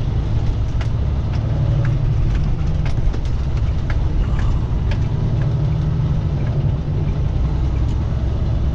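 Steady low engine drone and road noise inside the cab of a semi-truck tractor driving bobtail, with no trailer behind it, with a few faint ticks or rattles.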